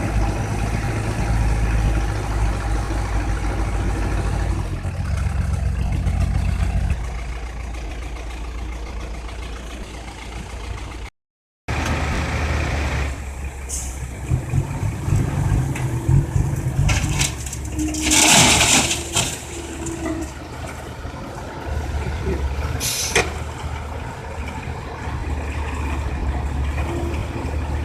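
Heavy diesel machinery running steadily: a Komatsu excavator and a six-wheel dump truck loading crushed rock. About two-thirds through comes a loud hiss lasting a second or two, with a shorter sharp one a few seconds later.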